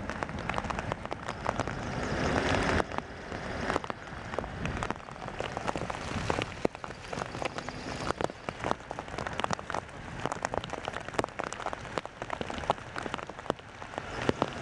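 Rain falling, with many separate drops ticking sharply, a little heavier in the first few seconds.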